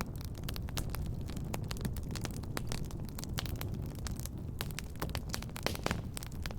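Fireplace fire crackling, with many quick irregular snaps and pops over a steady low rumble of the flames.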